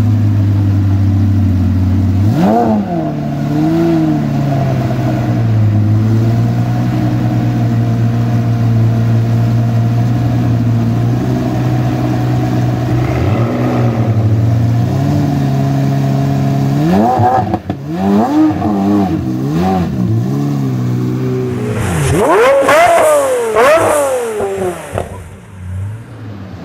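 Pagani Zonda 760 Roadster's 7.3-litre V12 idling steadily, with a throttle blip a couple of seconds in, a series of quick revs past the middle, and the highest, hardest revs near the end.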